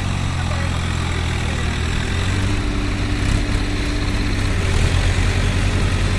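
Tractor diesel engine running steadily, growing slightly louder and more pulsing toward the end.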